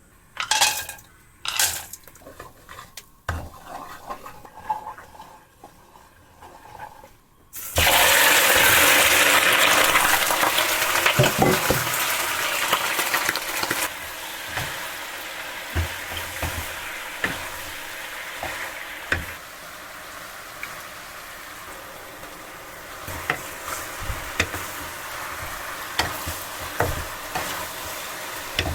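A few clinks and knocks of kitchenware, then food hitting hot oil in a pan about eight seconds in with a sudden loud sizzle. The sizzle eases after a few seconds to a steady frying sizzle, with a utensil clicking and scraping as the food is stirred.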